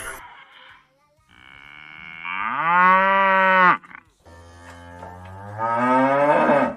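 Cow mooing twice: two long moos, each rising in pitch and then held.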